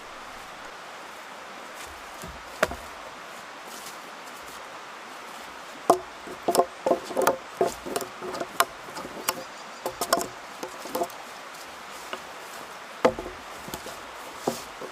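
Wood being chopped or knocked with a hand tool: single sharp strikes, then a quick run of knocks in the middle, then a few more single strikes.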